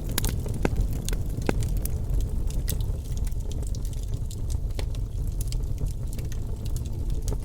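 Bonfire crackling: irregular sharp pops and snaps over a steady low rumble of burning wood.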